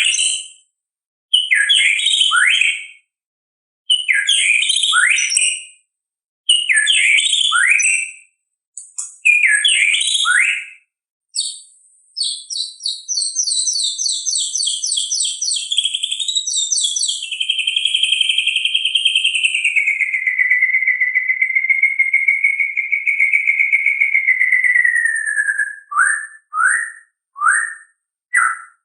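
White-rumped shama (murai batu) singing: short whistled phrases repeated about every two and a half seconds, then a fast trill, then a long held whistle that slides slowly down in pitch, ending in a few short notes.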